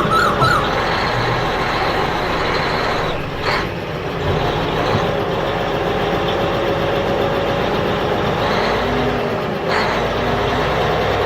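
A motor running steadily, with a short warbling tone that ends about half a second in.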